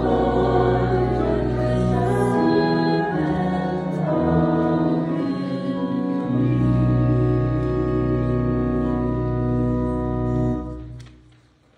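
Church organ playing slow, sustained hymn chords over a steady bass, with voices singing along. The chords change every couple of seconds and the music dies away shortly before the end.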